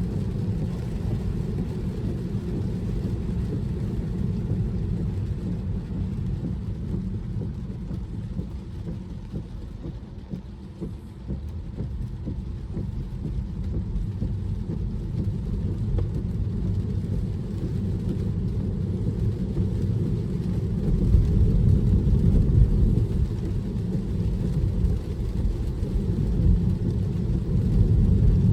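Steady low rumble of tyre and road noise inside a Tesla electric car's cabin while driving on rain-soaked roads. It eases briefly in the middle and grows louder near the end.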